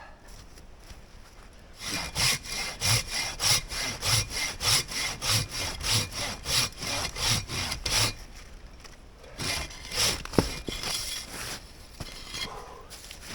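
Silky Katanaboy 650 folding pruning saw cutting dead wood in quick, even back-and-forth strokes, about three a second, starting about two seconds in and pausing around eight seconds. A few more strokes follow, with one sharp click among them.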